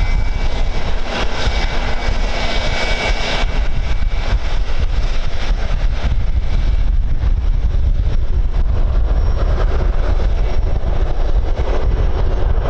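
Airliner engines running with a steady high whine and hiss that drop away about three and a half seconds in, over heavy wind rumble on the microphone.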